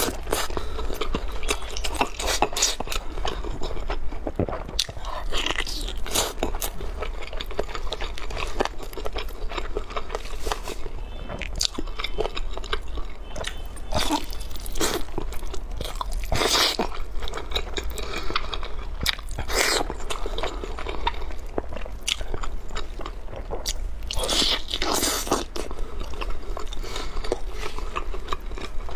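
Biting and chewing of a sauce-glazed Orleans-style roast chicken leg, with many sharp wet clicks and smacks from the mouth and several louder bites.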